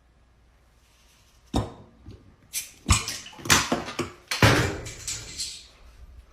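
A series of sharp knocks and clatters, the first about a second and a half in, after a short silence.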